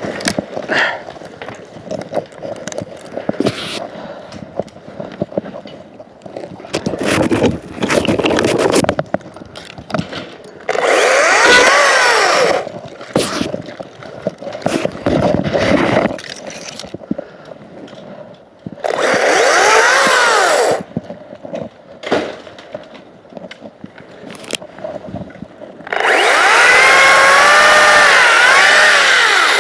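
Makita 18V cordless chainsaw cutting wood in three bursts, about 11 s in, about 19 s in, and from about 26 s on; the motor's whine dips and rises in pitch as the chain bites and frees. Between the bursts there are scattered knocks and rustling.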